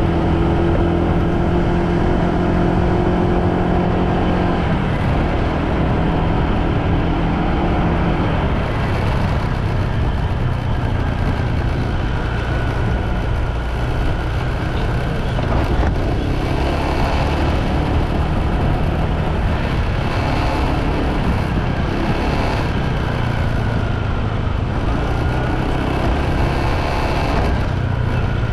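Motorbike running at a steady speed while riding, with road and wind rush. Its engine tone holds steady for the first eight seconds or so, then sinks into an even rushing noise.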